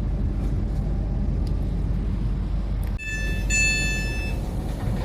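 Passenger train running at speed, a steady low rumble heard from inside the carriage. About three seconds in, a two-note electronic chime sounds from the onboard public-address system, the signal that an announcement is coming.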